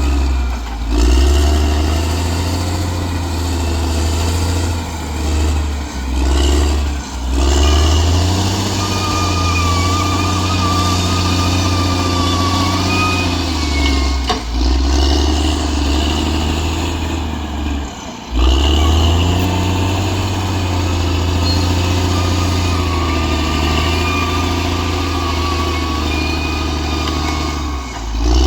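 Bulldozer's diesel engine running steadily, with a thin high whine at times. The sound breaks off suddenly for a moment a few times.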